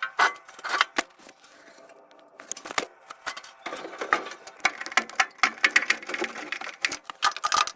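Irregular clicks, knocks and rattling from tools and furnace parts being handled, sparse at first and then a dense run of quick clicks and rattles from about halfway through.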